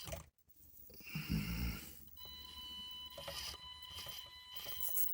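Axial SCX24 mini crawler's small electric motor and gearbox whining at low throttle as it creeps over plastic obstacles, with a dull thump about a second and a half in and light knocks of tyres on plastic.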